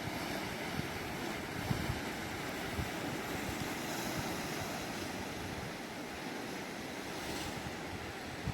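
Ocean surf washing onto the beach, with wind buffeting the microphone in low thumps.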